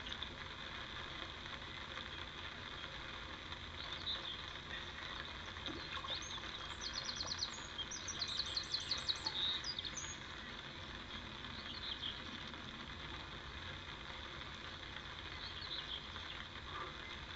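A songbird singing over steady outdoor background noise: two quick runs of rapid, repeated high notes between about six and ten seconds in, with a few scattered short calls elsewhere.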